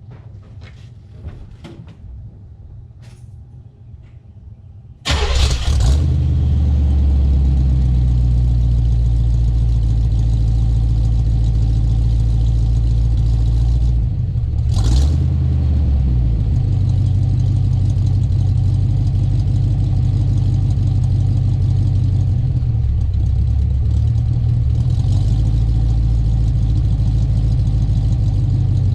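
A few light clicks, then a Chevrolet Chevelle's engine starts about five seconds in and settles into a steady idle through 1 7/8-inch dual exhaust with glasspack mufflers, dumped before the rear axle. The engine note briefly dips and changes about halfway through.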